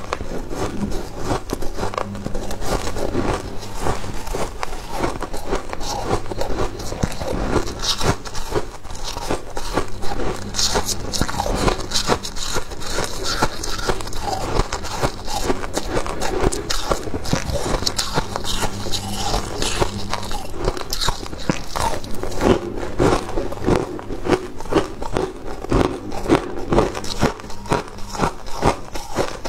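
Freezer frost being bitten and chewed close to the microphone: a dense, continuous run of crisp crunches.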